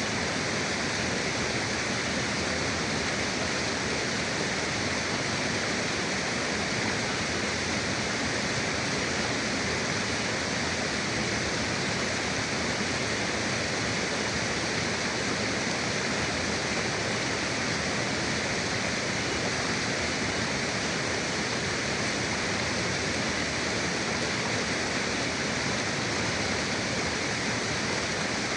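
A river flowing, a steady, even rush of running water.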